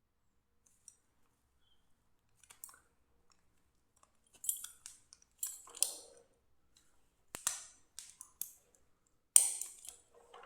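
Handling noise from unboxing a belt: a series of short rustles and clicks, sparse at first and coming thicker from about halfway, with the loudest one near the end.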